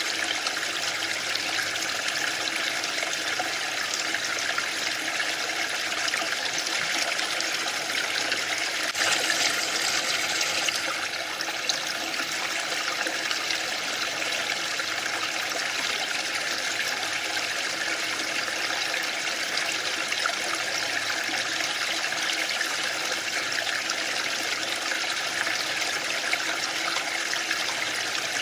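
Waterfall: a steady rush of falling water, briefly louder and brighter for about two seconds some nine seconds in.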